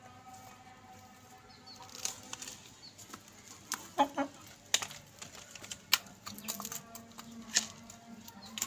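Chickens pecking at crisp papad: a scattering of sharp taps and crackles, with a short chicken call about four seconds in.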